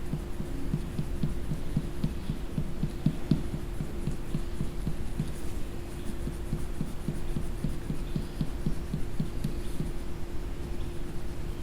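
Rapid back-and-forth coloring strokes on paper, short rubbing thumps about three to four a second, over a steady low hum.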